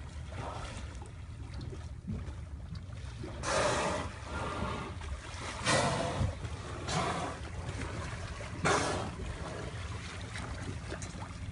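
Water splashing around a small boat, with wind on the microphone: a steady low rumble, broken by four louder rushing splashes spread through.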